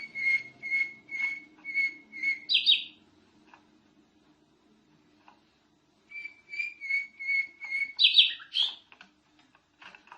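Canary singing: two phrases of evenly repeated whistled notes, about two a second, each ending in a quick burst of higher notes, with a pause of about three seconds between them.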